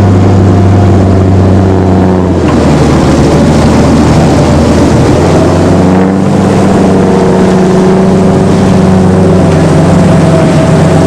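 Engine of a World War II DUKW amphibious truck running steadily under way. Its note shifts about two and a half seconds in and settles back a few seconds later.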